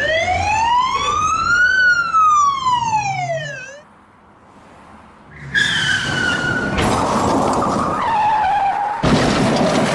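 A siren wail sweeps up and then back down once over about four seconds. After a short pause comes a long tyre screech that falls slowly in pitch, as of a car skidding.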